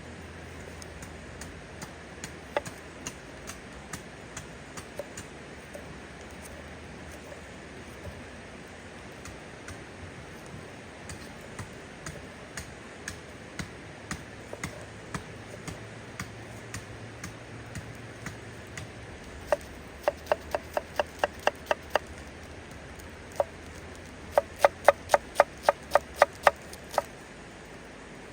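Knife chopping on a wooden board: scattered single strokes, then two quick even runs of about four strokes a second in the last third.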